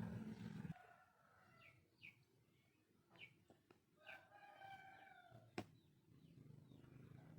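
Faint bird calls: a few short chirps, then one longer call about four seconds in, with a single sharp click shortly after.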